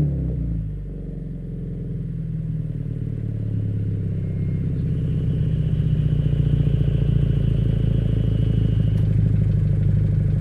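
Toyota 86 exhaust at idle: the engine settles from a rev into a steady low idle that grows gradually louder over the first few seconds, then holds.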